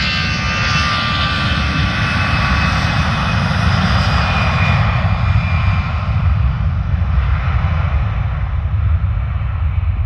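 Airplane engines running loud at an airport: a deep steady rumble, with a high whine that fades out over the first half while the rumble carries on.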